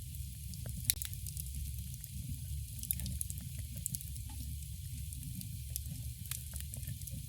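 Campfire burning: a steady low rumble of flames with scattered sharp crackles and pops of burning wood, the loudest pop about a second in.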